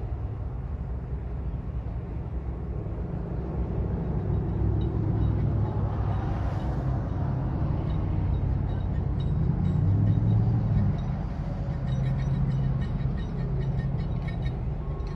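Low rumble of heavy diesel engines, swelling to a peak about ten seconds in and then easing, with faint clicking near the end.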